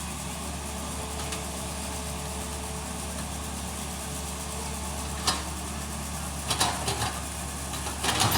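Tata Hitachi excavator's diesel engine running steadily, with a sharp knock about five seconds in and a few more clanks near the end.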